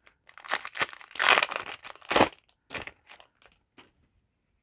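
Foil booster pack wrapper crinkling and tearing as it is opened by hand: a run of irregular crackles that stops for the last half second or so.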